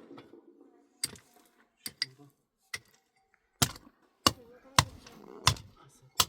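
A series of sharp knocks: a few light ones, then from about halfway on five loud strokes in a steady rhythm, a little more than one a second.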